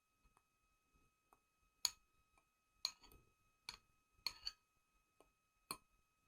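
Fork clinking against a plate while stirring mashed banana batter: about five sharp clinks at irregular intervals, the loudest about two seconds in.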